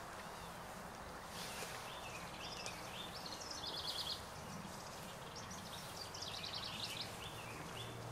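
A songbird singing short repeated notes, with a fast trill about four seconds in and another about seven seconds in, over a steady rustle of people walking through tall grass.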